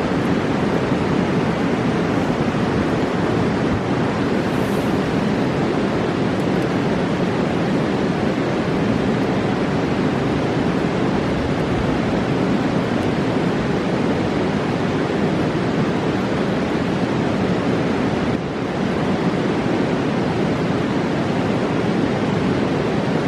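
Roaring mountain river: fast water rushing in one steady, unbroken roar.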